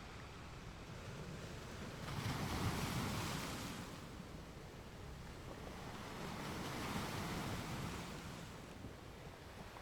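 Ocean waves washing onto a beach, two waves rising and falling, the first about two seconds in and louder, the second gentler a few seconds later, over a steady soft rush of wind.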